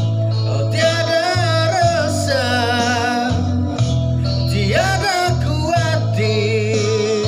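A song: a voice singing held notes with vibrato over a sustained instrumental backing.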